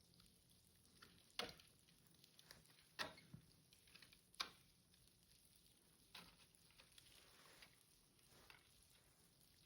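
Near silence, broken by a few faint, sharp taps or crunches, three of them about a second and a half apart early on, then weaker ones.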